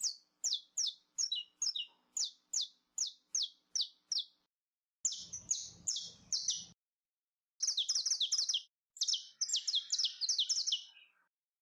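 Saffron finch (canário-da-terra) singing: a series of sharp, high downslurred notes about two or three a second, then, after a short pause, faster and denser song phrases.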